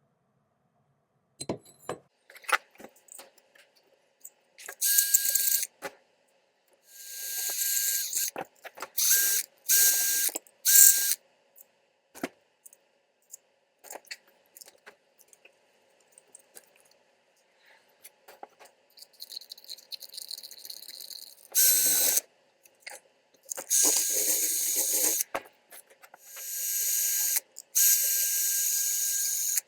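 A small mechanism whirring and ratcheting in short runs of a second or so, with small clicks and knocks of handling in between.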